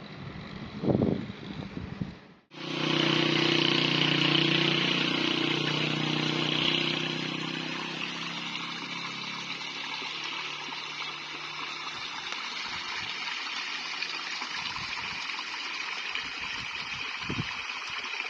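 Steady rush of flowing stream water that starts abruptly about two and a half seconds in, after a short stretch of uneven car noise.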